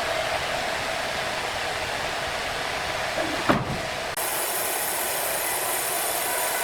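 Steady, hissing machinery noise with a single thump about halfway through. Just after the thump the sound abruptly turns brighter and more hissy.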